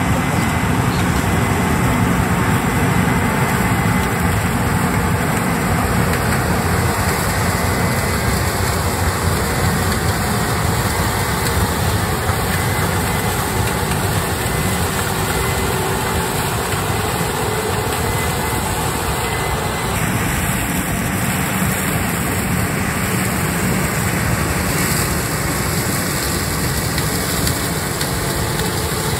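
Heavy diesel harvesting machinery, combines and tractors, running steadily in the field. The deep engine noise holds constant, shifting slightly about two-thirds of the way through.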